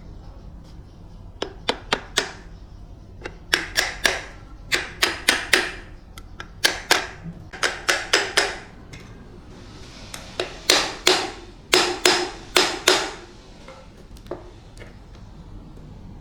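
Hammer striking metal in quick runs of three to six blows with short pauses between, each blow ringing briefly.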